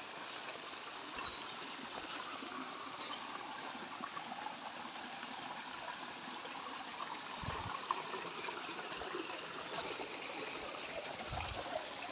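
Water running steadily in a stream, with a couple of soft low thumps in the second half.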